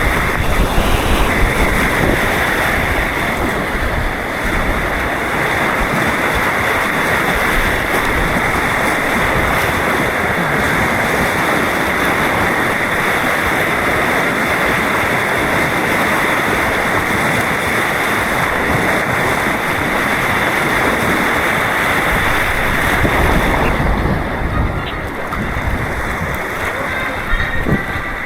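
White-water rapids on an artificial course rushing steadily, close to the microphone, with wind and water noise on the mic; the rush eases a little near the end.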